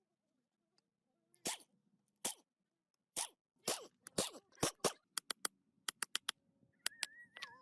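A series of sharp, irregular clicks and knocks, with a brief high wavering tone near the end.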